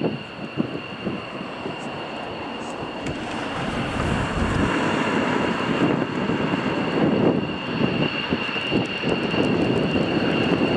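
F-15 fighter jets' engines running as they taxi out: a steady rumble with a high, even whine, growing a little louder a few seconds in.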